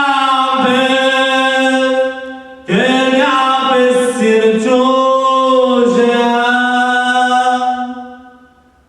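A woman singing a Romani song unaccompanied, in long held notes. One note is held, there is a short break about two seconds in, then a new phrase swells and slowly fades away near the end.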